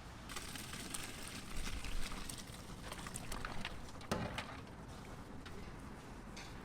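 Restaurant background clatter: scattered clinks and knocks over a steady low noise.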